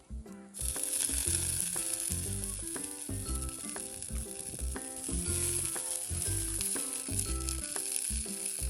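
Food sizzling steadily in a hot frying pan, starting suddenly about half a second in.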